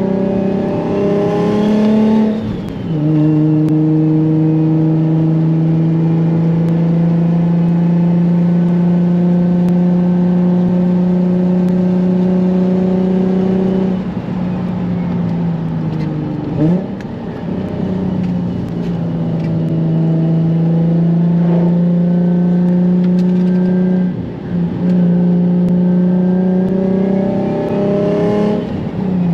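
Single-turbo Nissan 350Z's V6 engine heard from inside the cabin while driving. The note holds mostly steady, climbs and then drops sharply at gear changes about two seconds in and again near the end, with a brief dip and blip in between.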